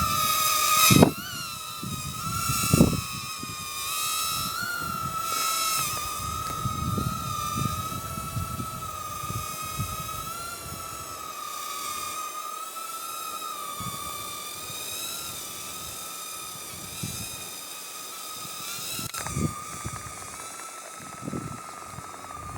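Cheerson CX10 nano quadcopter's tiny motors and propellers whining at a steady high pitch that wavers slightly, with gusts of wind buffeting the microphone and two knocks in the first three seconds.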